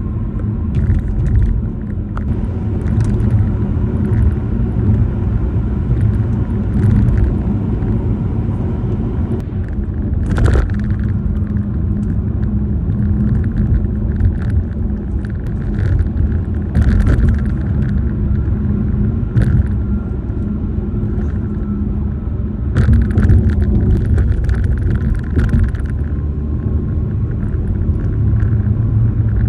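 Car tyres rumbling over grooved bridge pavement, heard from inside the cabin, with a faint steady hum. Short rattling clicks come through repeatedly, worst about ten seconds in and again near the end. They come from the phone mount and interior plastics, cracked by freeze-thaw cycles.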